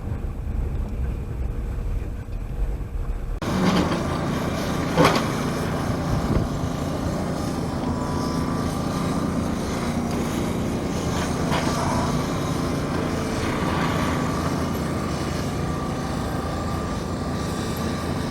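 Wind buffeting the microphone as a low rumble, then, from an abrupt cut about three seconds in, an engine running steadily with a few knocks.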